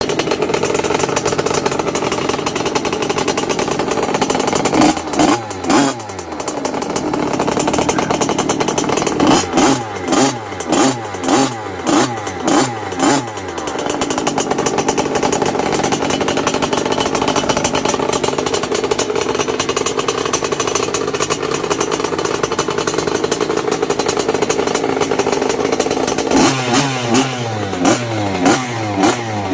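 Lem Motor XXL 50cc two-stroke pit bike engine running steadily, blipped in short revs. There are two revs about five seconds in, a quick run of about eight revs from about nine seconds, and repeated revs again in the last few seconds.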